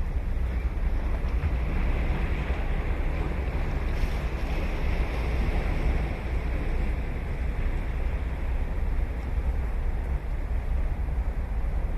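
Ocean surf washing onto a sandy beach, a steady rush that swells a few seconds in and eases off, over a deep rumble of wind on the microphone.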